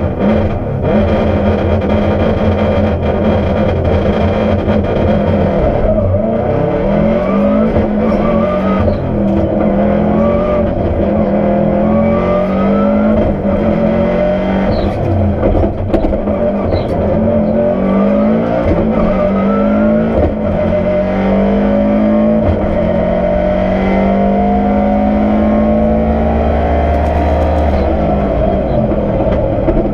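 Historic rally car's engine heard from inside the cabin under hard acceleration, its pitch rising through each gear and dropping back at each upshift, several times over.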